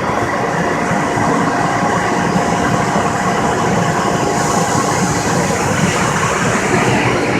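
CNC router running in a cabinet shop, a loud steady rush of machine and extraction noise with a constant whine through it.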